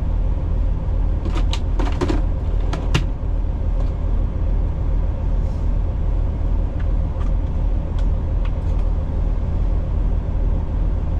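Road-train prime mover's diesel engine running with a steady low drone, with a few clicks and rattles in the first three seconds.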